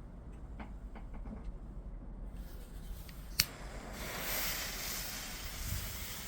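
Fireworks at a distance: faint scattered pops, one sharp crack about three and a half seconds in, then a steady hissing crackle from about four seconds on.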